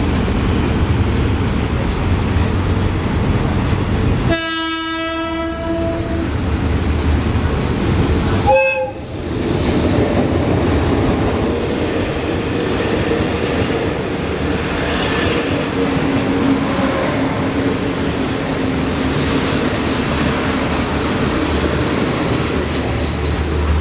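Express passenger train running past the platform, its carriages rattling over the rails. The horn sounds one blast of about two seconds about four seconds in, then a short toot about four seconds later.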